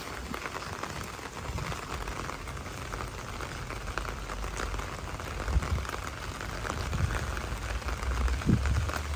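Steady rain falling, a dense crackle of drops, with a few dull low thumps in the second half.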